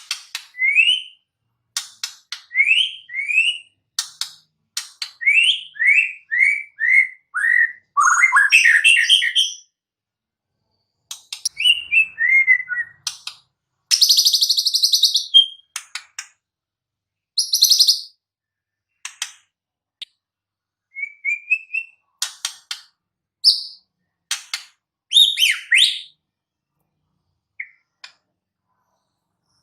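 White-rumped shama singing a varied song: runs of quick rising whistled notes, sharp clicks and short rapid buzzy trills, in separate phrases with short pauses between them.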